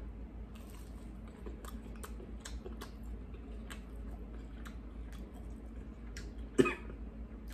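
A person chewing a sauce-dipped chicken nugget close to the microphone: many small, irregular wet mouth clicks. Near the end comes a single short, louder cough as food goes down the wrong pipe.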